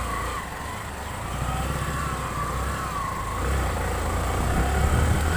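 Motorcycle being ridden in traffic: a steady low rumble of wind and engine on the rider's microphone, with a faint wavering whine running through it.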